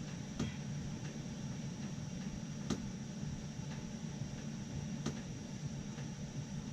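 Steady low hum of a running steam boiler and its hot water loop circulator pump, with three faint sharp clicks a couple of seconds apart.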